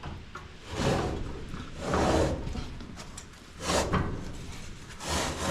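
Rummaging noises: about four short sliding, scraping rustles roughly a second apart, as things are moved around in a drawer while searching for a multimeter.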